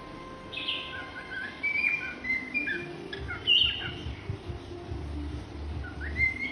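Parrot chirping and whistling in a run of short calls, a few a second, with the loudest chirp about three and a half seconds in.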